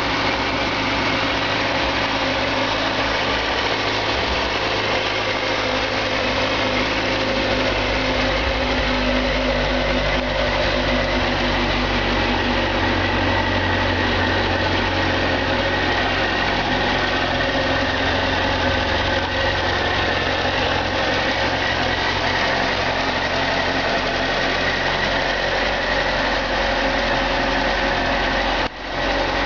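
2005 Suzuki GSX-R600's inline-four engine idling steadily, with a brief dropout in the sound about a second before the end.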